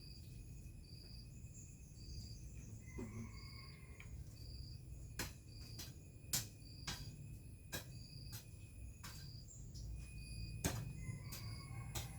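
Insects chirping in a steady chorus, one short chirp repeating about once every second, over a low rumble of wind. A brief higher call sounds about three seconds in, and sharp clicks come scattered through the second half.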